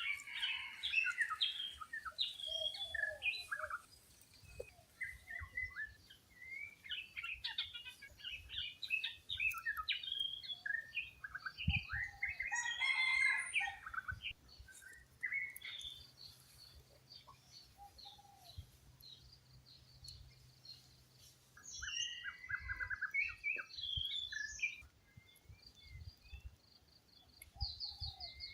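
Red junglefowl chicks peeping among other birds chirping: many short, high calls, thickest about halfway through, with a quick run of repeated notes about two-thirds of the way in.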